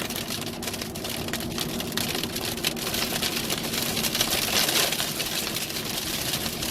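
Heavy rain beating on a vehicle's roof and windshield, heard from inside the cabin, with a dense patter of drops over the steady hum of the engine and road.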